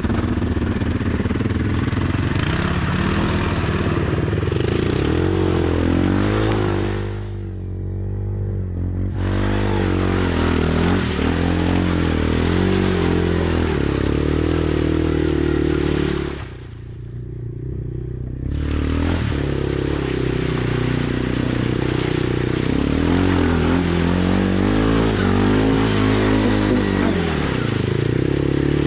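Kymco Maxxer 300 quad's engine running under way, revs rising and falling as the throttle is worked. Twice it drops back briefly, about seven and seventeen seconds in, then picks up again.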